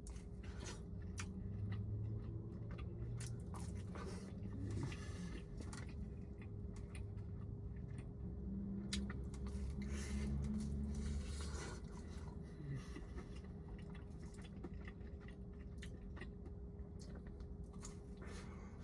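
A person chewing a bite of pizza, with many small, irregular wet mouth clicks.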